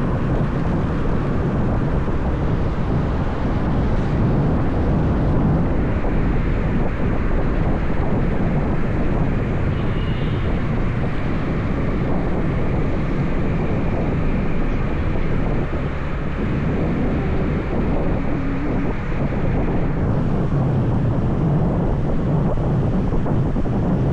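Wind rushing over the microphone on a moving motorbike, with the engine and road noise underneath as a steady low rumble.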